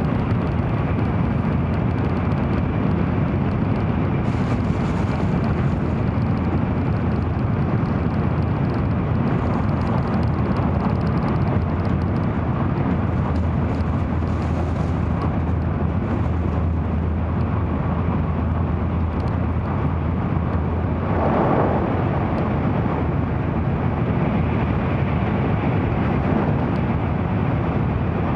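Steady low rumble of an N700-series Shinkansen heard from inside the passenger cabin while running at line speed. A short whoosh about three quarters of the way through.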